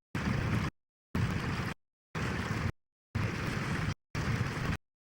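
Tractor engine noise with wind on the microphone, broken into chunks of about half a second by repeated dropouts to complete silence, roughly once a second.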